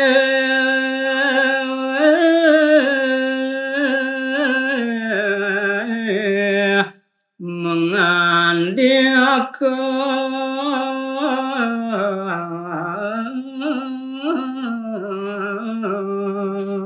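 Unaccompanied solo singing of a Balinese geguritan verse in the pupuh Sinom melody, with long held notes and ornamented turns. The singer breaks for breath about seven seconds in.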